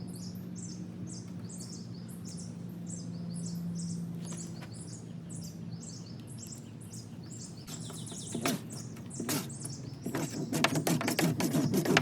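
Birds chirping in short repeated high notes over a low steady hum. From about eight seconds in, scattered clicks and rustling handling noise begin and build into a dense, rapid scratching near the end.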